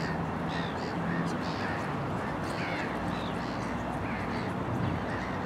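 Birds calling in short, repeated chirps over steady outdoor background noise.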